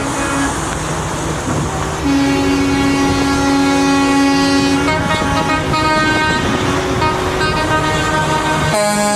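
Several truck air horns sounding together in long, overlapping blasts at different pitches, the strongest held for about three seconds starting two seconds in, over the steady noise of the trucks' engines.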